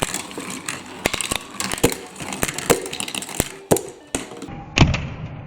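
Marbles rolling and clattering along a plastic block marble-run course: a run of quick, irregular clicks and knocks over a light hiss, with one heavier, deeper knock near the end.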